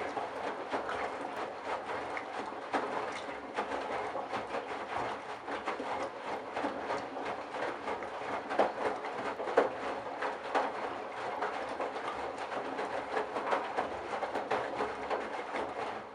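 Candy Bianca washing machine drum tumbling a load of wet towels, with water sloshing and splashing inside. The splashes are irregular and continuous, with a few louder ones about two-thirds of the way through.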